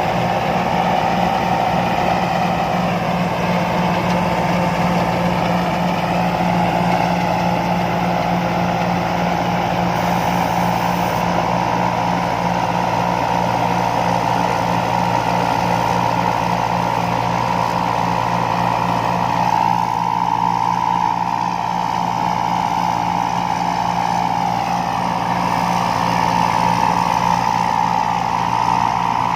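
Combine harvester engine running steadily, a constant low hum with a higher tone that wavers up and down at times.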